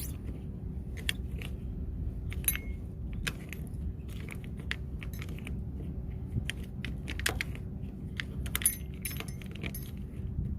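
Small metallic clicks and clinks of a hex key and fittings at an air conditioner's outdoor-unit service valves, as the valves are opened fully to release the R410A charge into the lines. A steady low rumble lies underneath.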